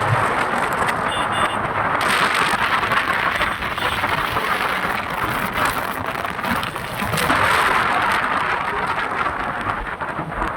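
Wind rushing over the microphone of a motorcycle riding on the highway: a loud, steady hiss that swells and eases a little.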